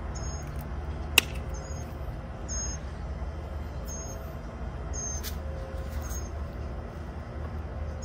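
Small bird chirping: short high chirps repeating roughly once a second over a steady low hum, with one sharp snap about a second in.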